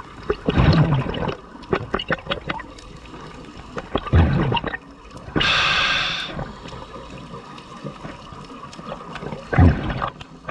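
A scuba diver breathing through a regulator underwater: a hissing inhale through the regulator about halfway through, with bursts of exhaled bubbles rumbling and gurgling near the start, around four seconds in, and near the end.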